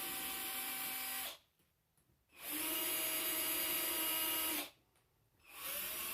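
Power drill running in three spurts with short pauses between, the motor's pitch rising as each spurt starts, driving out a long screw as a ceiling fan is taken down.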